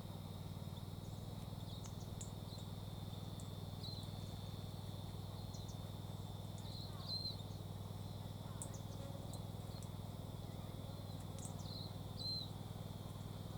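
Faint bird chirps, short high calls with a little upturn in pitch, heard a few times over a steady low hum and soft outdoor background.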